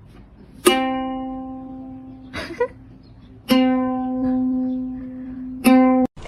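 A single plucked string note, ukulele-like, sounded three times at the same pitch, each ringing and fading slowly, with a brief noise between the first two.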